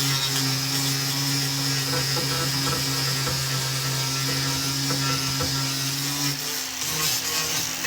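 A small power tool's motor running with a steady hum, then stopping about six and a half seconds in.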